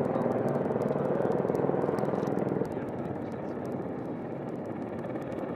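AH-64 Apache helicopter's engines and rotor making a steady drone, which drops a little in level about two and a half seconds in.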